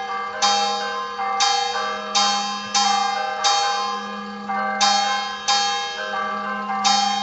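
Church bells ringing in quick, uneven strokes, two bells of different pitch alternating, about eight strikes each left to ring on, over a steady low hum.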